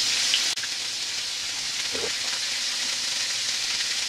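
Breaded chicken-fried steaks shallow-frying in hot oil in a cast-iron skillet: a steady sizzle with scattered small crackling pops. It breaks off for an instant about half a second in, then carries on a little quieter.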